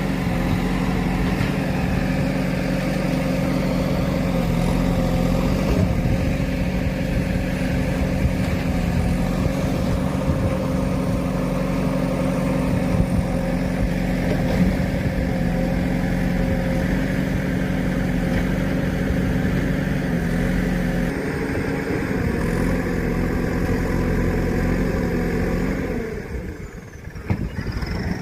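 A vehicle engine running at a steady speed with an even drone. It drops away briefly near the end, then picks up again.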